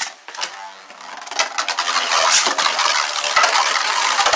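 Two Beyblade spinning tops spinning and colliding in a plastic stadium: a fast, dense clatter of hits and scraping that grows loud about a second in and keeps going.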